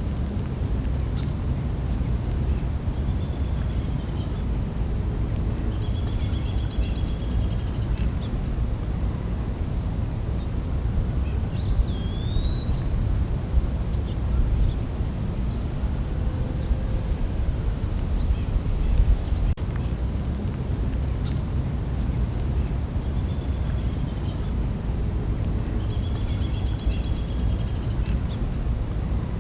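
Night insect chorus: a steady high-pitched drone with crickets chirping in regular pulses, broken by short buzzy trills early on and again near the end. A single short whistled bird call comes about twelve seconds in, over a low rumbling background.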